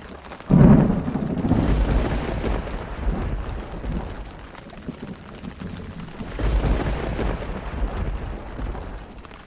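Thunder over steady rain: a sharp, loud clap about half a second in that rumbles on for several seconds and fades, with a second, weaker roll of thunder a little past the middle.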